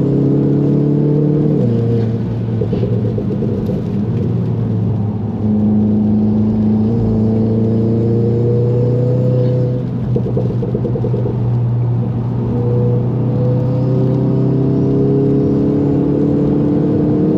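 VW Golf 7 GTI's turbocharged 2.0-litre four-cylinder engine heard from inside the cabin at speed. Its note drops about two seconds in as the driver lifts, then pulls and climbs in pitch, eases briefly about ten seconds in, and climbs again under acceleration.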